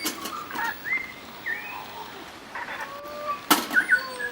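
Native New Zealand forest birds calling: many short whistled notes sliding up and down, overlapping, with two sharp clicks, one at the start and a louder one about three and a half seconds in.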